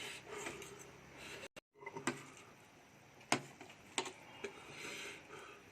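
Quiet eating sounds: a few scattered sharp clicks and taps, with faint breathing between them.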